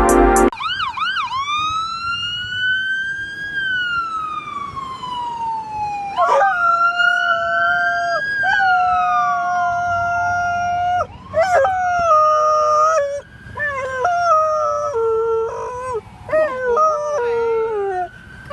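An ambulance siren wailing in long rising and falling glides while an Australian Shepherd puppy howls along with it; the howls turn into shorter, wavering cries in the last few seconds.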